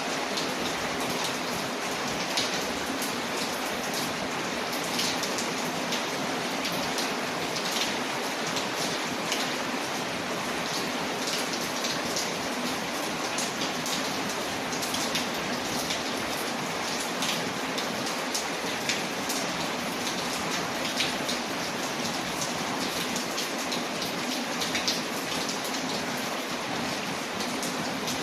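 Steady rain pattering on a window, layered with a crackling wood fire that gives frequent small sharp pops.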